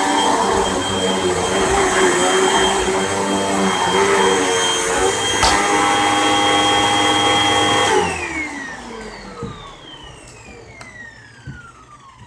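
Hoover WindTunnel Rewind Bagless upright vacuum cleaner running steadily on a rug, with a sharp click about halfway. About eight seconds in it shuts off, and the motor winds down with a falling whine.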